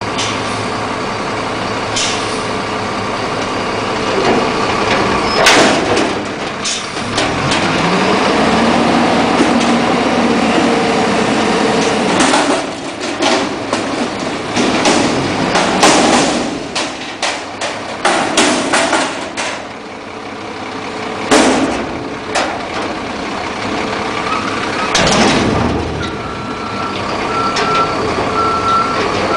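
Front-loader garbage truck at work: its diesel engine running and revving to drive the hydraulic arms, with repeated loud metallic bangs as a dumpster is lifted and emptied into the hopper. A reversing beeper starts near the end.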